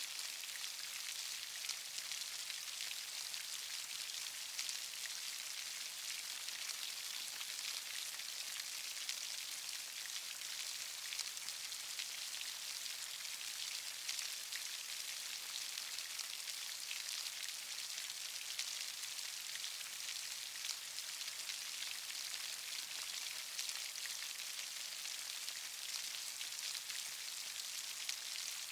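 Steady rain: a constant high hiss with a dense patter of individual drops.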